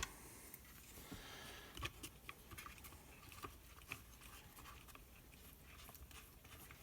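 Near silence with a few faint, light clicks scattered through it, the sound of small chainsaw screws being handled.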